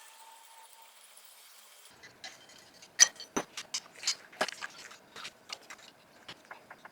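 A run of sharp metallic clicks and taps from hand tools working on an old air-cooled VW engine, starting about two seconds in at roughly three a second, the loudest about a second later.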